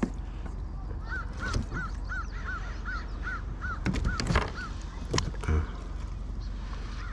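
A bird calling, a regular series of about a dozen short rising-and-falling notes at about three a second. A few sharp knocks, the loudest about four and five seconds in, cut across it.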